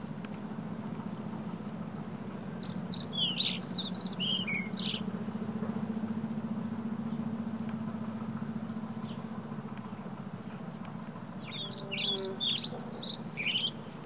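A bird chirping in two bursts of quick, high, darting notes, the first about three seconds in and the second near the end, over a steady low hum.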